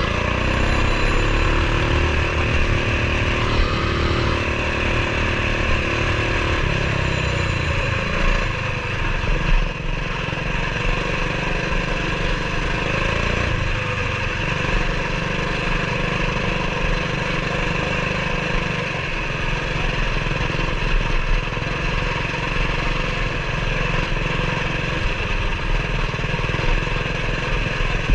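Coleman BT200X mini bike's single-cylinder engine, fitted with an aftermarket exhaust, running steadily while riding, with its engine speed rising and falling in the first few seconds.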